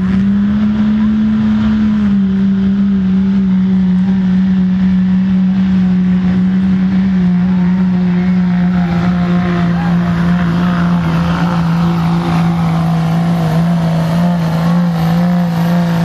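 A pulling truck's engine held at high, steady revs, with a slight drop in pitch about two seconds in.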